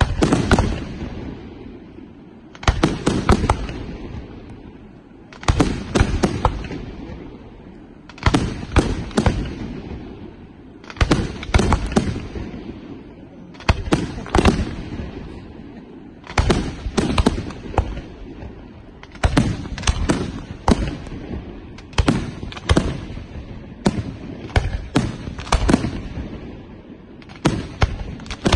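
Aerial firework shells bursting overhead in volleys of several sharp bangs each, a new volley about every three seconds, with a low rumbling decay between volleys.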